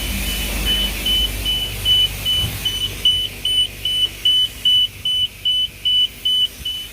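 Self-serve car wash timer panel beeping steadily, a high single-tone beep about two and a half times a second, as the paid wash time runs down. A low steady rumble of machinery lies underneath.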